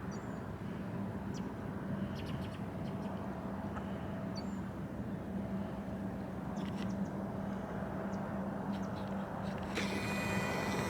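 Steady low engine hum, distant and continuous, over outdoor background noise, with a brief hiss near the end.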